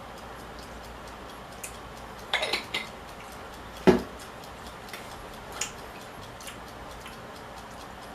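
Scattered light clicks and clinks of cutlery against dishes while eating, with a short cluster about two and a half seconds in and one louder knock near four seconds, over a steady background hiss.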